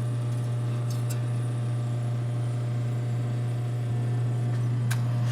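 1952 Vornado room air conditioner running, freshly recharged with R12: a steady low hum with a soft, even rush of air from its centrifugal blowers, and a couple of faint ticks.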